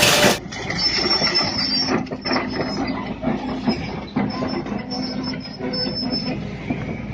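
Heavy machinery running with a steady low hum, scattered knocks and an intermittent high metallic squeal.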